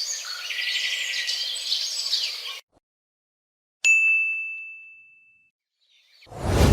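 A single bright ding sound effect: a sharp strike that rings on one high tone and fades away over about a second and a half, a little past the middle. Before it, a short noisy high-pitched clip with chirping ends abruptly, and near the end a loud, low swell begins.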